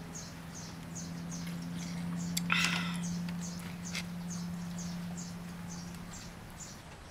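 A small bird chirping over and over: short, high, falling chirps, about two a second, over a steady low hum that fades away about six seconds in. About two and a half seconds in comes a knock followed by a brief louder sound, as the mug is set down on the bamboo table.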